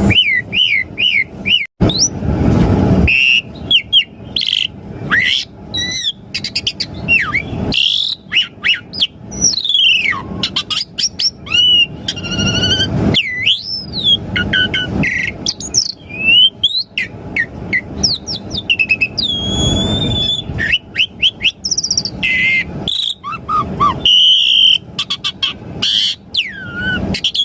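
Asian pied starling (jalak suren) singing a long, varied song of whistled notes that slide up and down, quick chirps and harsh rasping passages, one after another without a break.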